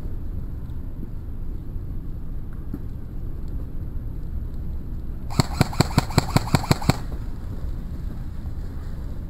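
Airsoft rifle firing a rapid burst of about a dozen shots, roughly eight a second, over a steady low rumble.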